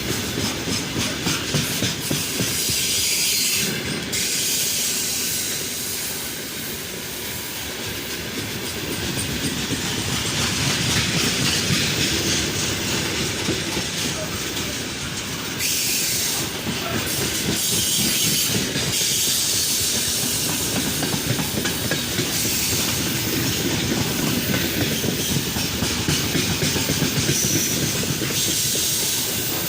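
Freight train rolling past, its wheels clattering over the rails under a steady hiss.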